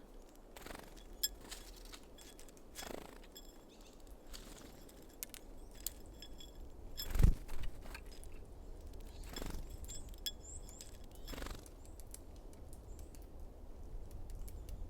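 Small birds at a feeder: irregular light taps and clicks, with several brief wing flutters, the loudest about seven seconds in. A few faint high chirps about ten seconds in.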